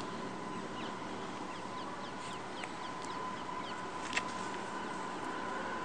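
Quiet outdoor background of steady hiss with a faint steady high tone, small birds giving short falling chirps now and then, and one sharp click about four seconds in.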